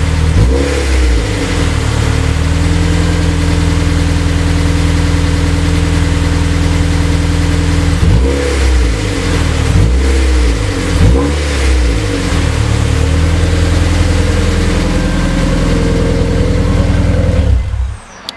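Honda S2000 four-cylinder engine idling steadily, blipped up in quick revs about half a second in and three times around the middle. It cuts off just before the end. This is the engine's first run on a newly fitted Skunk2 intake manifold, not yet tuned and running lean.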